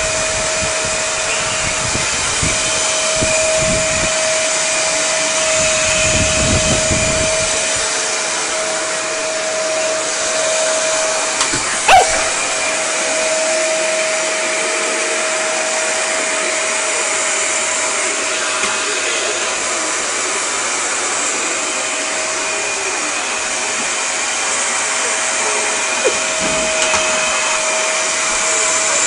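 Vacuum cleaner running steadily with a constant whine, being pushed about, with low rumbling in the first several seconds and one sharp knock about twelve seconds in.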